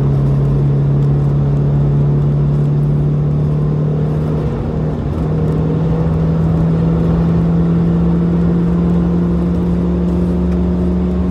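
Mercedes-Benz 190E 2.3-16's 2.3-litre 16-valve four-cylinder pulling hard under load, heard from inside the cabin, its pitch climbing slowly as the car gains speed. About five seconds in the note briefly breaks and dips, then picks up again at a higher pitch.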